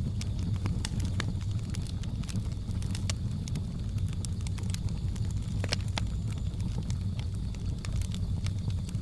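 Wood fire crackling with irregular sharp pops over a steady low rumble of flame, joined by a faint steady high hum.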